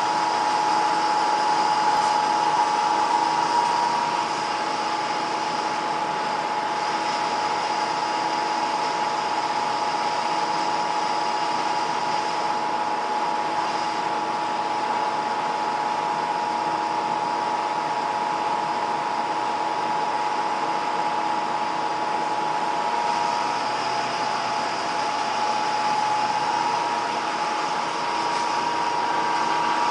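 Rotating experimental rig spinning counterclockwise, its motor giving a steady whirring hum with a constant whine; a little louder for the first few seconds, then even.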